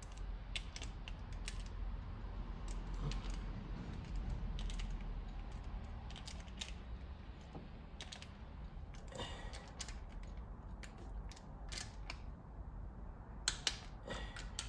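Hand tools clicking and ratcheting on the rocker arm bolts of a 3.8L V6 engine: scattered sharp metallic clicks, a short ratcheting sound about nine seconds in, and a few louder clicks near the end, over a low steady hum.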